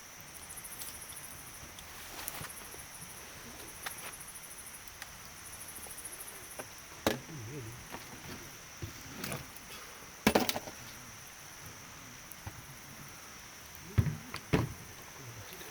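Campfire wood giving about six sharp cracks and knocks, the loudest about ten and fourteen seconds in, over a steady high insect drone with pulsed chirping in the first half.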